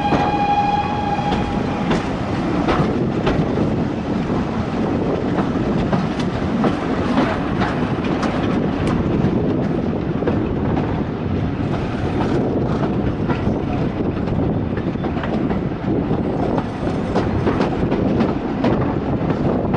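Railway carriage running along the track: a steady rumble with irregular clicks and knocks from the wheels over the rails. A steady high tone, starting before this and stopping about two seconds in, rides over it.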